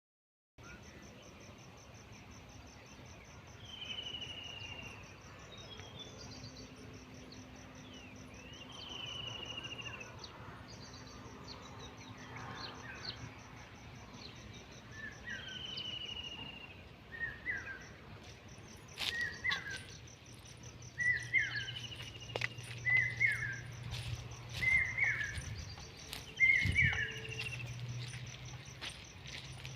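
Crickets chirping in a steady high pulsing trill, with birds calling over them. One bird gives a falling whistled note every few seconds. From about halfway on, a short chirp repeats about once a second. A low steady hum and a few faint clicks sit underneath.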